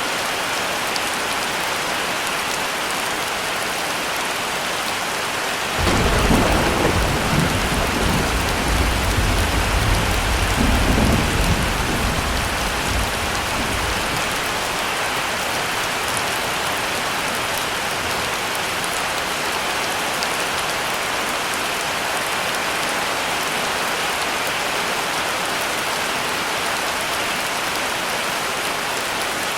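Heavy rain falling steadily. About six seconds in, a thunderclap breaks in and rumbles deeply for several seconds before dying away.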